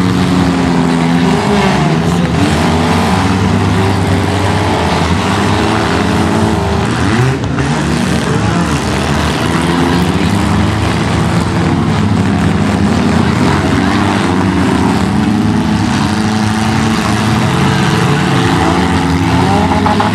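Several demolition derby cars' engines running and revving at once, their pitches rising and falling and overlapping throughout.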